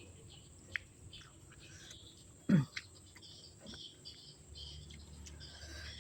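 Close-up eating sounds: chewing with wet mouth clicks and smacks, and one short, louder throat sound falling in pitch about two and a half seconds in.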